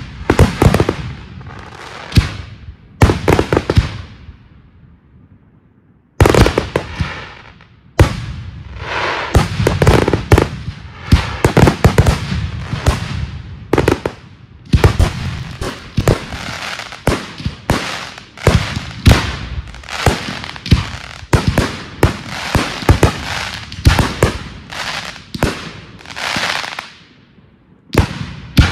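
Fireworks display: shell bursts and firecracker-like bangs, with a few loud bangs early on and a lull about five seconds in. From about eight seconds there is a dense, rapid barrage of bangs and crackling, which thins out near the end.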